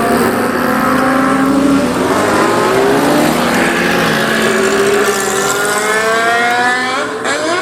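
Old motorcycle engines revving loudly as the bikes pull away. Their pitch climbs in long rising sweeps, with a quick rev blipped up and down near the end.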